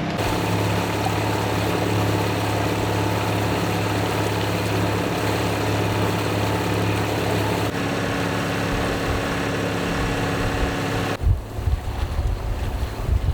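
A boat engine running at a steady low hum, with wind and water noise around it. Near the end the hum gives way to irregular gusts of wind buffeting the microphone.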